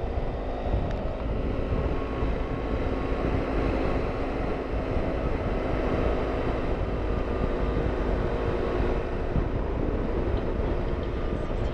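Motorcycle engine running steadily with wind noise while riding at a cruising pace, its note drifting slightly up and down.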